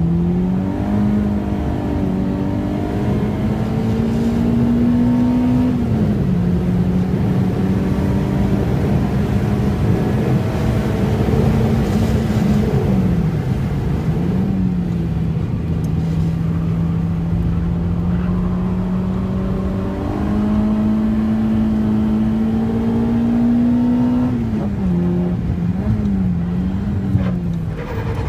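Peugeot 106's four-cylinder engine heard from inside the cabin, running at middling revs. It climbs slowly under throttle, then drops back several times as the driver lifts off or changes gear, with a few quick blips of revs near the end.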